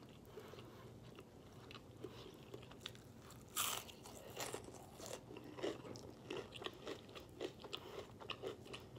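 A bite into a fried hash brown patty, with one sharp crunch about three and a half seconds in, then chewing with many small crunchy clicks.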